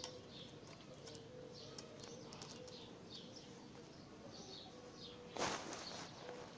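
Small birds chirping again and again in the background, with a faint on-and-off coo-like tone. A brief loud rustle of noise about five seconds in.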